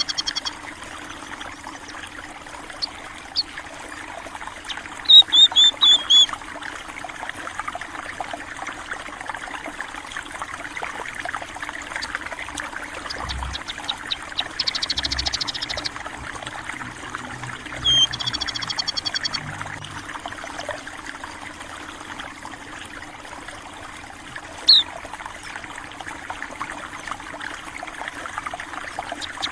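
Water trickling and flowing steadily, with small birds chirping over it: a quick run of descending chirps early on, two buzzy trills around the middle, and a few single chirps later.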